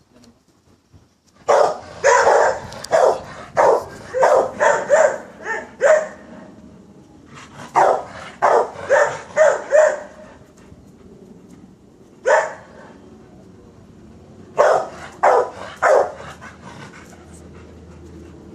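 Wolfdog barking in runs of rapid barks: about ten in a row, a short pause, about six more, a single bark, then three or four more near the end.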